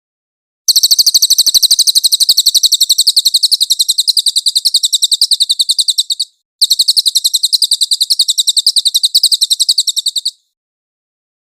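Cililin bird song: a fast, high-pitched trill of rapid chirps, about ten a second, in two long runs with a brief break between them.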